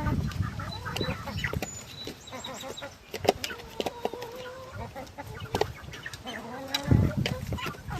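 Chickens clucking and calling over food, mixed with many sharp short clicks like beaks pecking. There is a brief louder rush of low sound about seven seconds in.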